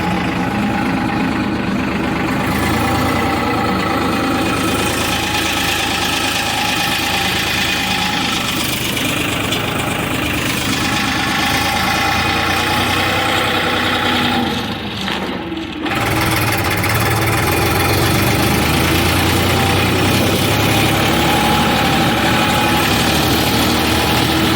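Farmtrac tractor's diesel engine running steadily, with a short dip in level about fifteen seconds in before it carries on.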